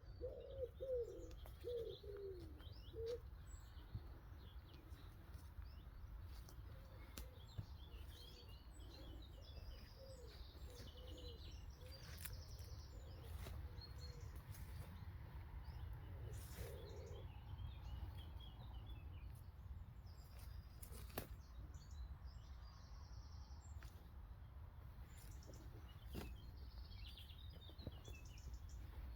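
Faint woodland birdsong: small birds chirping and twittering on and off, with a few lower, gliding calls in the first three seconds. Under it runs a steady low rumble, broken by a few sharp clicks.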